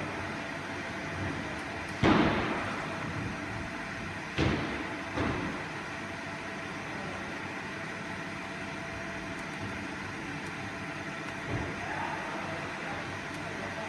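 Steady hum of a running machine, with a few sharp knocks and thuds, the loudest about two seconds in and a softer one near the end.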